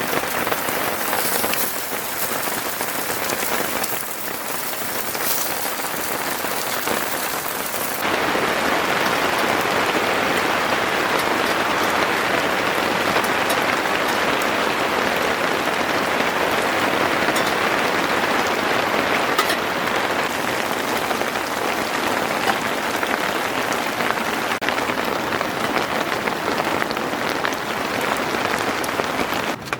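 Heavy rain falling, a steady dense hiss with scattered drop hits. It changes abruptly a few times and becomes louder and more even about eight seconds in.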